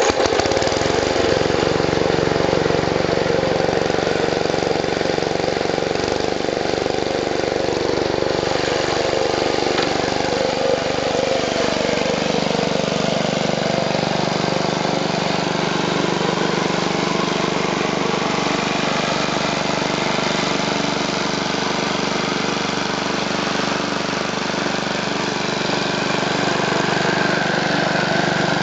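Wisconsin AKN single-cylinder air-cooled engine starting abruptly and running steadily. Its speed eases down a little about ten seconds in, then holds steady.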